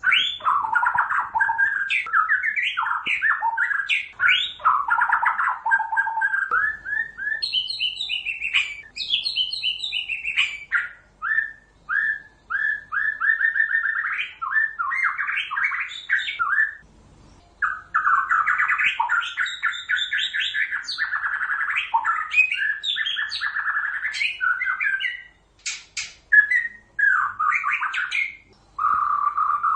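White-rumped shama (murai batu) singing a long, varied song of rapid repeated whistled notes and trills, broken by short pauses about 17 and 25 seconds in.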